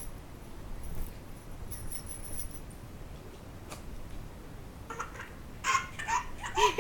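A baby's short, high-pitched squeals and babbling sounds that rise and fall, starting about five seconds in after a quiet stretch of room sound.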